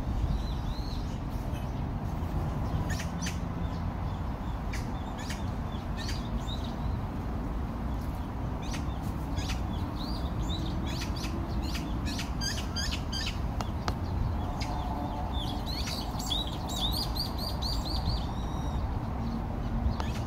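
Birds chirping and calling, with a quick run of repeated high notes about two-thirds of the way through, over a steady low background rumble.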